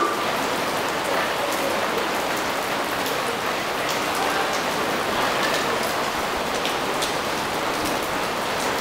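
Steady rain falling on foliage and surfaces: an even hiss with scattered faint drop ticks.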